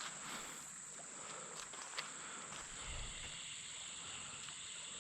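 Faint creekside ambience: a steady, high-pitched insect drone, with a few soft clicks and a brief low rumble a little past the middle.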